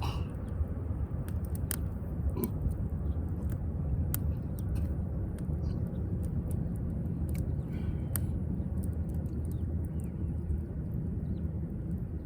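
Wood fire crackling in a firewood grill, with irregular sharp pops and snaps over a steady low rumble.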